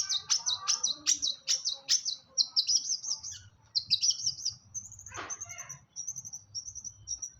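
Long-tailed shrike (cendet) singing: a fast string of high, repeated chirping notes, several a second, with a few harsh rasping notes among them.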